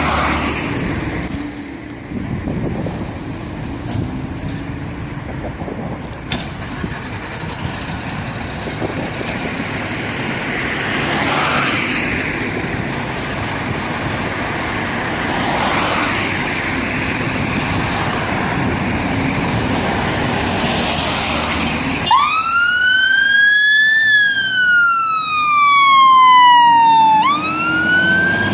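Road traffic and a running engine, with vehicles passing every few seconds. About three-quarters of the way through, a fire engine's siren starts up in a slow wail, rising, falling and beginning to rise again, as the appliance turns out.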